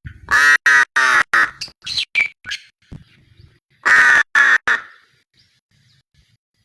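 Pet bird giving loud, harsh calls: a quick run of about five in the first second and a half, a few softer ones, then two loud calls about four seconds in.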